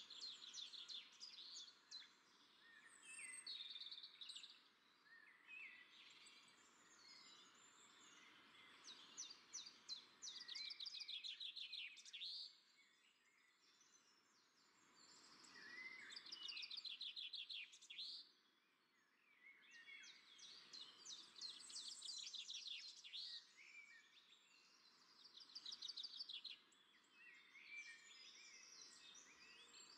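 Several small birds chirping and trilling faintly in quick runs of high notes, overlapping one another, with a couple of short lulls.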